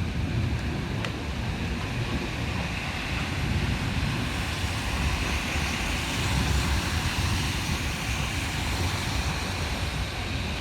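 Heavy rain pouring down in a thunderstorm, with wind buffeting the microphone in a steady low rumble.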